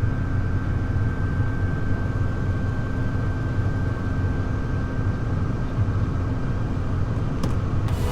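Farm machine engine running steadily at a constant speed, with a thin steady whine over the hum and a single brief click near the end.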